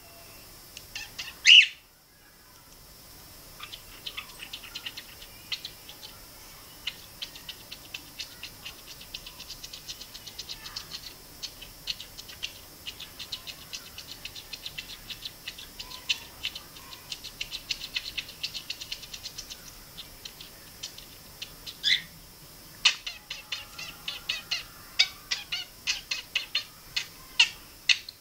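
Budgerigar chattering: long runs of rapid high clicks and chirps, broken by a few louder single whistled calls near the start and about 22 seconds in, then a busier stretch of calls near the end.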